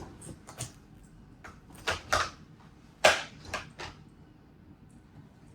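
Plastic parts of a cordless stick vacuum being handled and fitted together: a series of clicks and knocks, the loudest about three seconds in.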